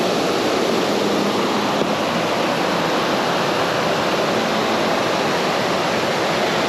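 River current rushing steadily, an even unbroken water noise.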